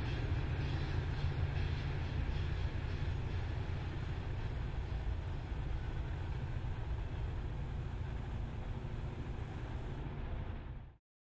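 An NJ Transit commuter train rolling past, a steady low rumble of wheels and running gear that eases slowly and then cuts off abruptly near the end.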